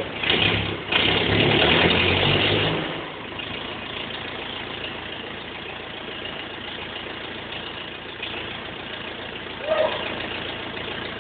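BMW E46 320d's four-cylinder diesel, freshly rebuilt after a swirl flap failure, running on its first start after the overhaul. It runs louder for about the first three seconds, then drops to a steady idle, with a brief louder sound near the end.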